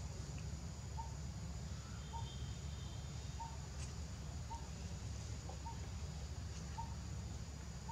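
A bird calling, a short chirp repeated about once a second, over a steady low background rumble.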